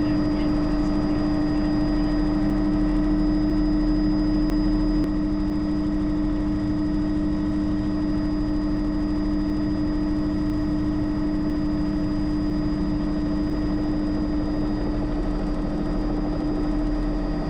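Bell 206 JetRanger helicopter running steadily, its single turboshaft engine and rotors making a constant drone with a strong, unchanging whine.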